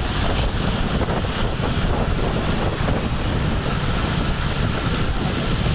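Steady road and engine noise from highway traffic at speed, with wind buffeting the microphone.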